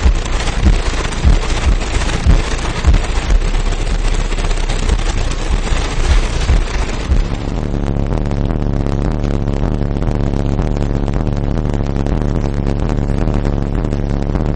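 18-inch Kicker Solo-X car subwoofer in a ported box, playing hip-hop bass at very high volume. It thumps out a pounding beat, then from about halfway holds a long deep bass note with a buzzing edge.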